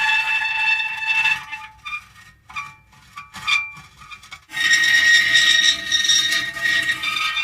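Metal creaking and squealing in drawn-out high tones. It thins to a few scattered short creaks and clicks from about a second and a half in, then dense squealing returns about four and a half seconds in.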